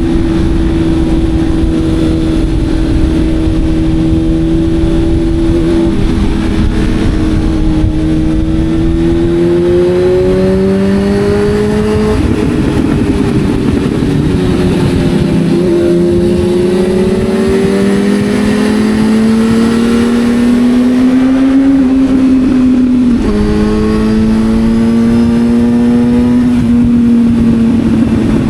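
Sport motorcycle engine heard on board while riding, its pitch climbing steadily as it pulls and stepping abruptly at gear changes, about three times.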